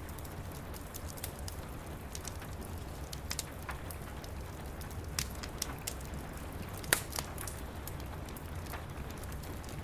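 Wood fire crackling with scattered sharp pops, one louder pop about seven seconds in, over steady rain and a low rumble.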